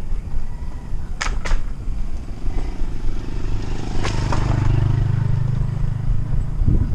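Wind buffeting the microphone while riding a bicycle on the road, with two sharp clicks about a second in. In the second half a motor vehicle's engine hums steadily as it passes.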